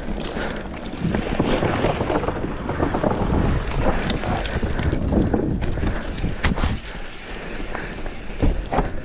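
Wind buffeting the microphone and tyres rumbling over a dirt trail as a mountain bike descends, with a few sharp knocks and rattles from the bike, two of them near the end.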